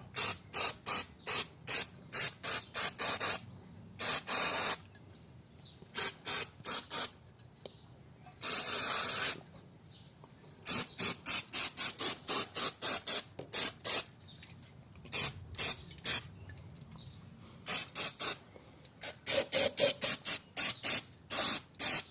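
Aerosol can of anti-rust lubricating oil sprayed in many short hissing bursts, about two a second in runs, with two longer sprays about four and nine seconds in.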